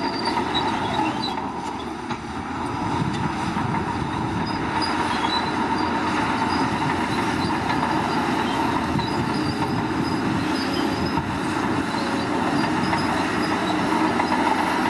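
Crawler bulldozer at work: diesel engine running steadily under its steel tracks, which squeal and clank.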